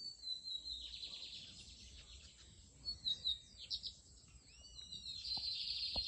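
Lined seedeater (bigodinho) singing: a fast, high trilled phrase, a few sharp separate notes, then another trilled phrase. A brief knock near the end.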